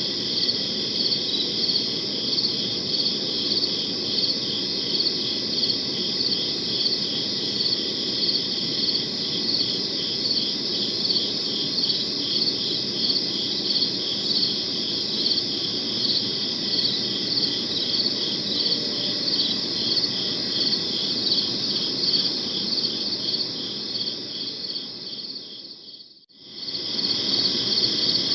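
Crickets chirping in a steady, fast pulsing chorus over a soft low background noise. Near the end the whole sound fades briefly to near silence and then swells back.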